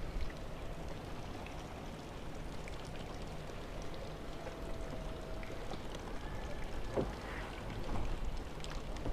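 Mercedes-AMG SL63's electric soft-top roof mechanism opening, a faint steady whine over steady background hiss that stops about five and a half seconds in, followed by a single click about seven seconds in.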